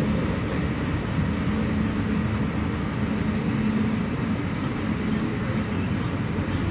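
Freight train cars, covered hoppers and coil steel cars, rolling past at a grade crossing: a low, steady rumble of wheels on rail, heard from inside a car.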